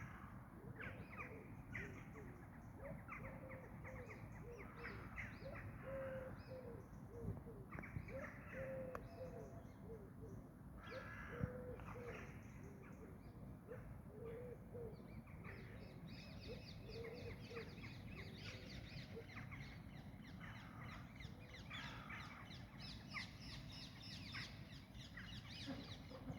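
Birds calling: a busy, faint run of many short repeated calls, over a low steady background hum.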